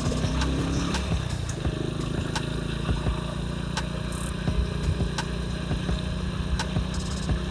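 Motorcycle engine running steadily while riding, with irregular clicks and knocks over it.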